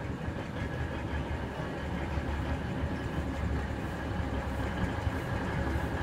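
Steady low rumble of a vehicle in motion, heard from on board.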